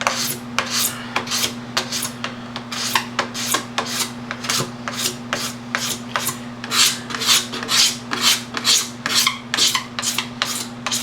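Drywall knife blade scraping the faded surface of a plastic motocross gas tank in quick, even strokes, about three or four a second, shaving off a thin layer of plastic. A steady low hum runs underneath.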